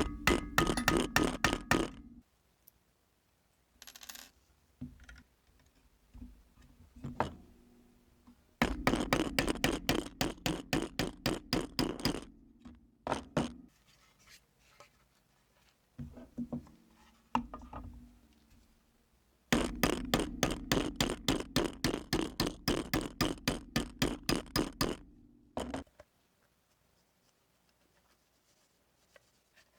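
Hand-tool work on a small sheet-metal tool box: three runs of rapid, even strokes, about six a second, with a few single knocks and clinks between them.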